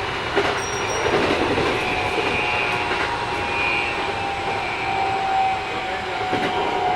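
Running sound inside a Keikyu 1000 series electric train with Mitsubishi IGBT inverter drive, heard at steady speed: continuous wheel and rail noise with a few steady whining tones. This set runs a little noisier than other sets.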